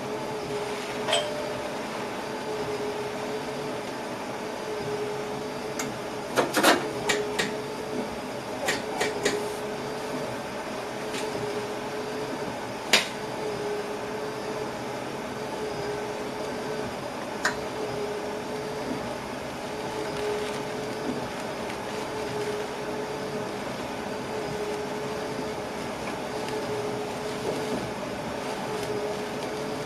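Inside a passenger train's driver's cab: a steady mechanical hum holding one constant tone, with a handful of sharp clicks and knocks. Most of the clicks bunch together a quarter to a third of the way in, and one louder click comes near the middle.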